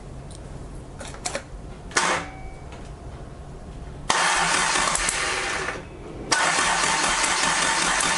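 Toyota 4A-G four-cylinder engine with individual carburettors and a straight-pipe exhaust starting up: it bursts into loud running about four seconds in, drops away briefly near six seconds, then catches again and runs on loudly. This is the first start of the rebuilt engine on its stand after its battery was recharged.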